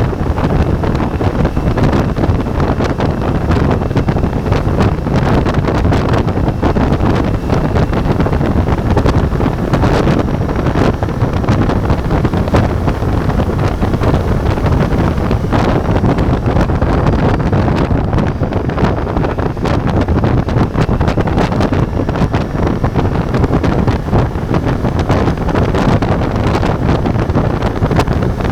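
Wind buffeting the action camera's microphone on a moving motorcycle, steady throughout, with the Ducati Multistrada V4's engine running underneath.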